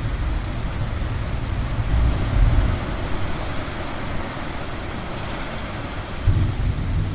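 Steady wash of ocean surf with a low rumble of gentle thunder underneath, swelling about two seconds in and again near the end.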